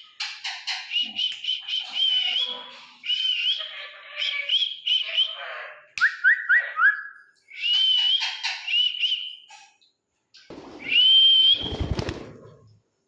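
Pet parrot giving repeated short whistling calls in quick clusters, with a run of four quick rising chirps about halfway through. A low rumble comes near the end.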